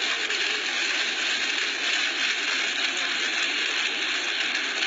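Hail falling steadily in a dense, even patter.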